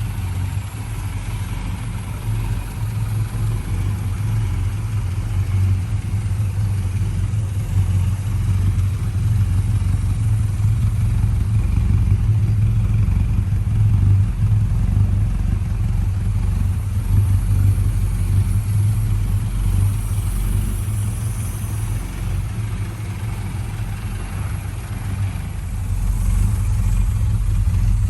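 A 1975 Ford Capri 1600 XL's four-cylinder engine idling steadily with a deep, even rumble.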